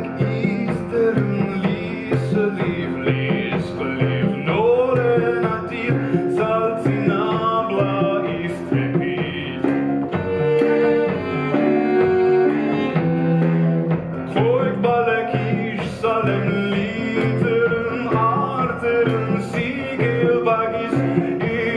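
A live chamber ensemble playing, with bowed strings carrying sustained and sliding notes over plucked strings.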